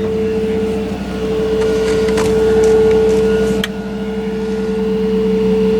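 Case IH JX75's four-cylinder diesel engine idling steadily, with a couple of short clicks about two and three and a half seconds in.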